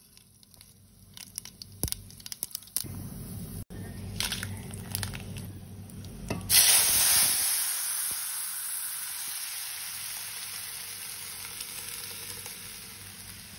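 Light crackling, then about halfway through a sudden loud sizzle that slowly dies down: ingredients dropped into hot oil in a pan.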